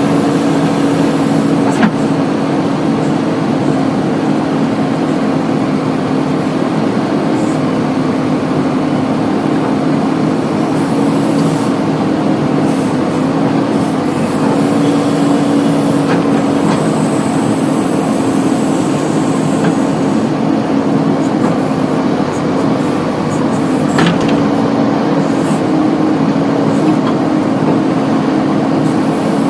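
Diesel engine of a JCB 3DX backhoe loader running steadily at working revs while it loads mud, its pitch sagging slightly a few times under load. A few sharp knocks, about two seconds in and again near the end.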